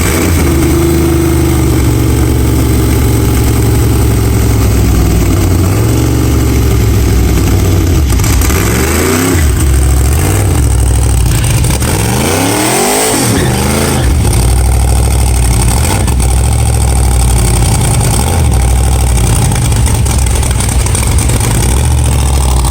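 A rat rod's engine running loud and rough, revved up twice, about a third of the way in and again just past the middle, then settling back to a steady run.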